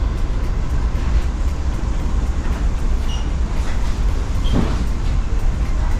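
Steady low rumble of an Amtrak Acela train running at speed, heard inside a passenger car, with a brief faint squeak about three seconds in and a short knock a little later.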